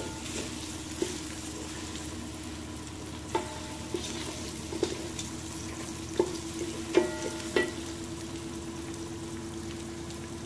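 Onion and whole spices sizzling in oil in a metal pot while a wooden spoon stirs them, the spoon knocking against the pot a few times with a short metallic ring. A steady low hum runs underneath.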